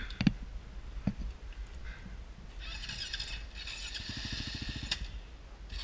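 Dirt bike engine running at low revs, with a rapid even chugging a little after the middle. A few sharp knocks come in the first second.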